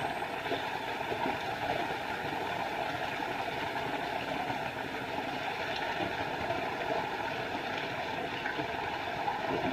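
Small forest waterfall: water falling and splashing in a steady, even rush with no breaks.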